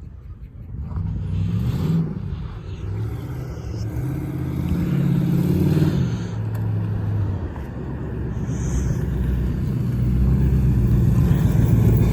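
A motor vehicle's engine running and revving, its pitch shifting and its level growing louder toward the end.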